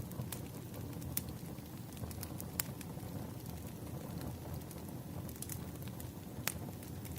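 Wood fire burning: a steady low rumble with a few sharp, irregular crackles and pops.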